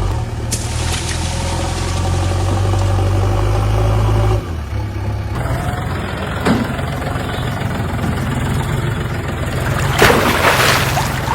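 Heavy vehicle engine running: a steady low drone that changes abruptly about four seconds in and turns rougher, with a short loud burst near the end.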